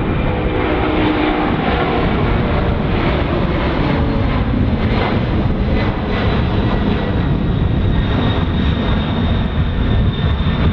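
Jet airliner engines running loud and steady as the aircraft passes close by. A set of lower humming tones fades in the first few seconds, and a thin high whine comes in about eight seconds in.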